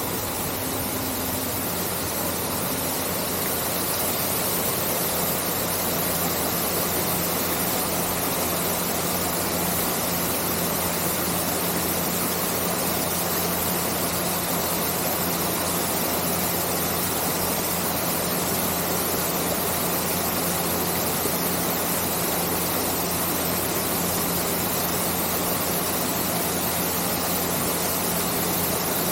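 Artificial rock waterfall pouring into an indoor pool: a steady, even rush of falling water, with a faint steady low hum beneath it.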